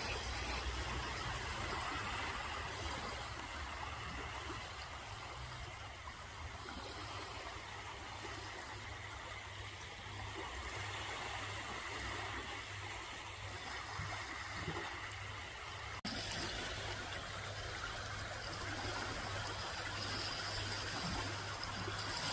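Steady rushing of flowing water, with a low steady rumble underneath.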